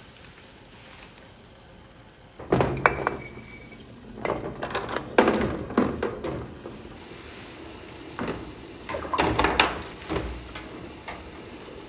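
Dishes and kitchen utensils being handled, knocking and clinking in several bursts from about two and a half seconds in, with one brief ring near three seconds.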